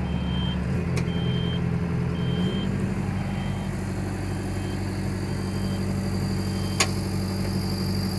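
Kobelco excavator's diesel engine being throttled up in two steps, about a second and two and a half seconds in, then running steadily at the higher speed without bogging, its fuel screen freshly cleaned. A short high beep repeats about once a second.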